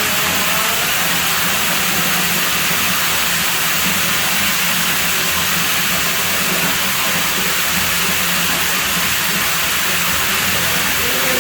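Water rushing steadily at a pool villa's pool, an even, unbroken hiss.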